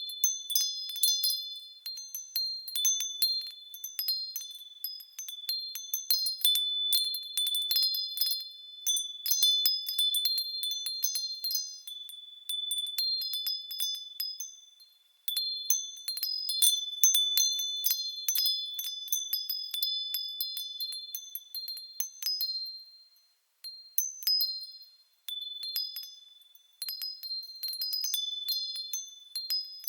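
Japanese furin wind bells ringing as the wind sways them: clear, high tones struck irregularly in clusters, with a few short pauses in the second half.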